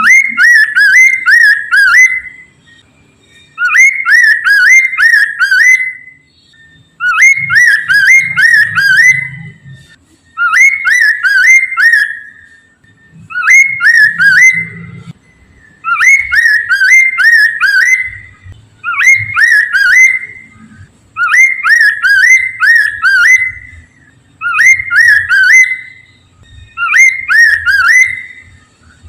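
Poksay mandarin, a laughingthrush, singing a loud whistled song: phrases of four or five rising notes, each about two seconds long, repeated about every three seconds.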